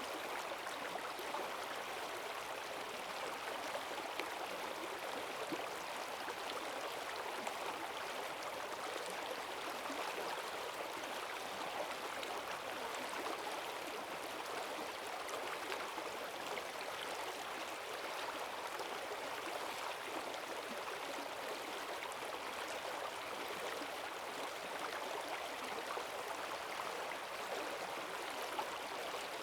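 Forest stream swollen by heavy rain, rushing water running steadily with a constant gurgling wash.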